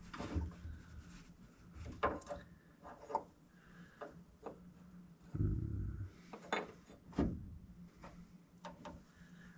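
Scattered clinks, knocks and rubbing of small metal parts and tools being handled, with a duller thump about five and a half seconds in.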